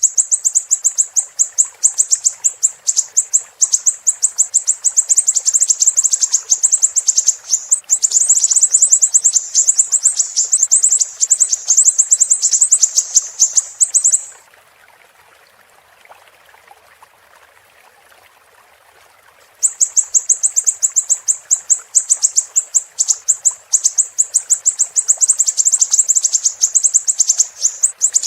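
A siri-siri bird singing a long, very high-pitched chatter of rapid notes, breaking off about halfway through for around five seconds and then starting again. A faint steady rush of running water lies underneath.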